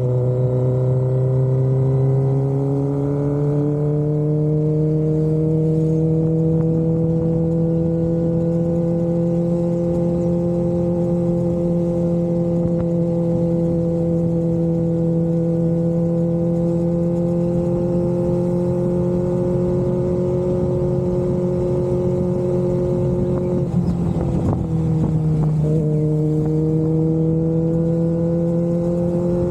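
Kawasaki Ninja ZX-25R inline-four engine running through an aftermarket Austinracing exhaust, holding a fairly steady engine speed. The note climbs slowly, holds, then dips briefly about 24 seconds in before rising again.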